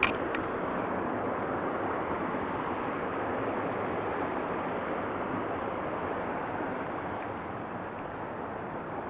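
Steady rushing of a shallow mountain stream flowing over rocks, with a single short click at the start.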